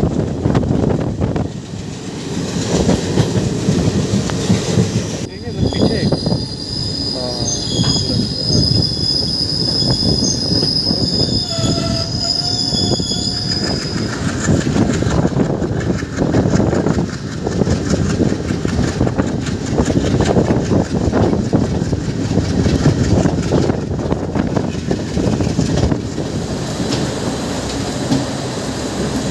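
Passenger train running: steady rumble of coach wheels on the rails with clickety-clack. From about five to fourteen seconds in, a high, steady wheel squeal sounds over it.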